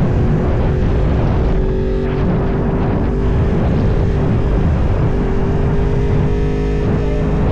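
Yamaha R1 sport bike's inline-four engine running at a steady speed while riding, with heavy wind rumble on the microphone.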